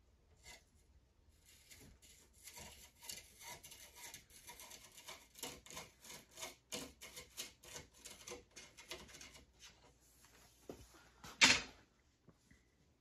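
Quick scraping strokes on wood, about three a second, then one louder, longer scrape near the end.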